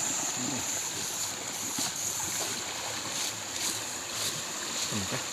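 River water rushing and sloshing, with a few short clicks or splashes and a steady high whine throughout.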